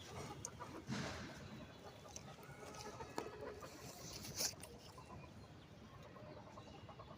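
Faint chicken clucking, with a few short clicks, the sharpest about four and a half seconds in.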